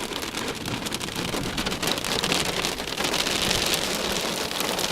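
Heavy thunderstorm rain falling steadily, a dense hiss of many individual drops striking close by, growing a little louder after about two seconds.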